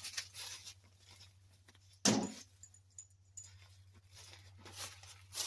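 Tools and gear being handled while a work table is set up: light rattles and rustles, with one loud clunk about two seconds in, over a low steady hum.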